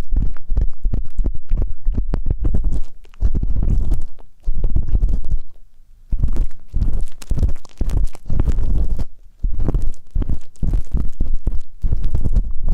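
Ear-cleaning ASMR: an ear pick tip scraping and rubbing close on a microphone, in runs of quick scratchy strokes with a heavy low rumble, broken by short pauses.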